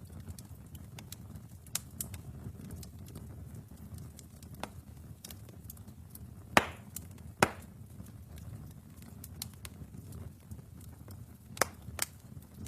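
Wood fire burning in a fireplace, with a low steady rumble of flames and frequent small crackles. Sharp pops from the burning logs stand out, two loud ones about six and a half and seven and a half seconds in and two more near the end.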